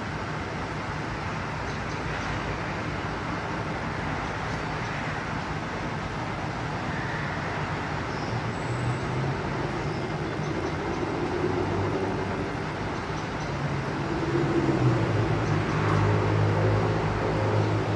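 Steady road-traffic rumble. A heavier engine hum grows louder over the last few seconds.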